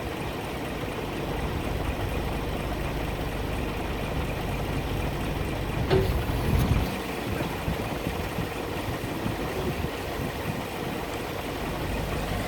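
Scania R 420 truck's diesel engine idling steadily, with a single short knock about halfway through.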